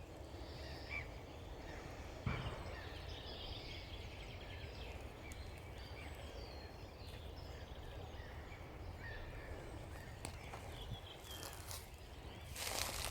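Faint songbird chirps and calls over a steady low outdoor rumble, with a rustle of movement near the end.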